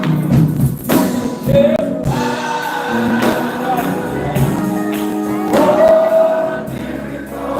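Gospel music in a church service: a choir singing with instrumental accompaniment and percussive hits.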